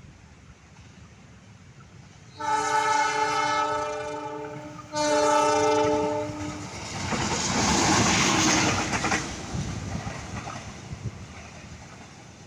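Railway locomotive horn sounding two long chord blasts, the second following straight after the first, then the train running past with a loud rush that fades away.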